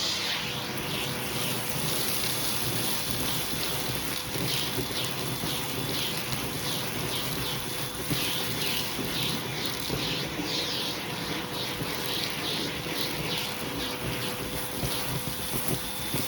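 Hoover vacuum cleaner running steadily with a hose tool, a faint steady whine under the motor noise. Repeated hissing swishes come as the tool is drawn back and forth over a shag rug, sucking up carpet powder.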